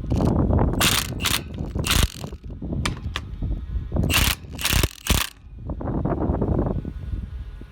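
Irregular sharp metallic clicks and clanks from a hand tool tightening a leaking hose clamp on an irrigation hose, over a steady low rumble.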